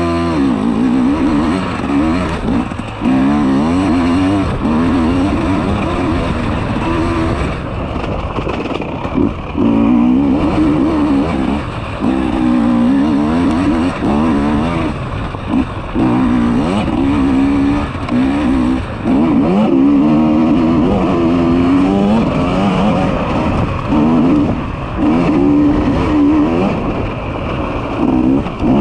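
Enduro motorcycle engine ridden hard off-road, its pitch rising and falling over and over as it revs up and backs off, with brief drops in loudness every few seconds.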